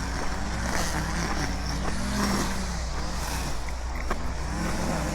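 Small-engine yard equipment running steadily, its engine pitch drifting up and down under load.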